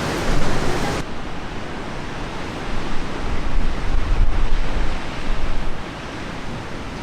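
Steady rushing noise, with a low rumble swelling from about three to six seconds in.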